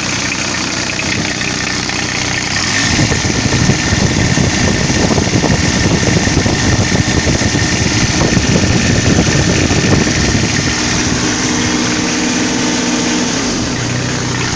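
Toro 3500D Sidewinder mower's diesel engine running at idle. It grows louder and rougher from about 3 s to 10 s, then settles back to a steadier note. It sounds like it is running pretty good on a fresh fuel filter after starving for fuel.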